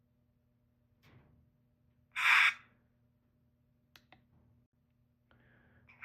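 Model locomotive sound decoder (LokSound V5 in a ScaleTrains GE ES44AC) playing its shutdown sequence. There is a short sharp hiss of air release about two seconds in, two small clicks a couple of seconds later, and another hiss starting at the very end.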